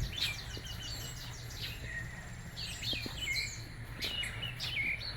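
Small birds chirping and singing, a string of short quick calls, over a low steady background hum.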